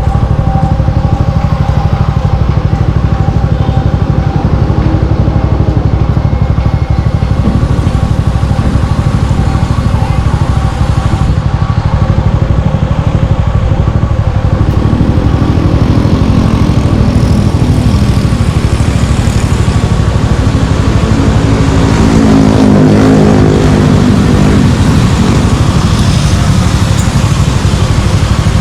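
Suzuki Gixxer 155's single-cylinder four-stroke engine running under way through an aftermarket exhaust, loud and steady. The revs rise and fall twice, once around the middle and again about two-thirds of the way in.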